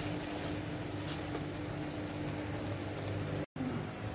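Chicken, chopped tomatoes and onion paste cooking in oil in an aluminium pot on a gas stove: a steady low sizzle with a faint steady hum under it, cut off by a brief dropout near the end.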